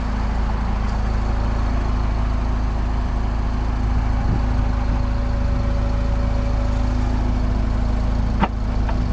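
A 2013 Mini Cooper S Paceman's 1.6-litre turbocharged four-cylinder idling with a steady hum, and a single click near the end.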